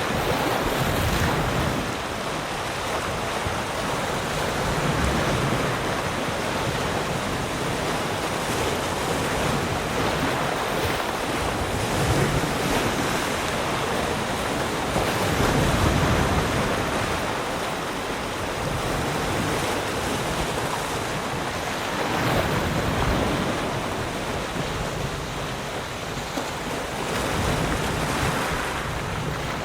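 Ocean waves breaking and washing on a shore, a continuous rushing surf that swells and falls back every few seconds.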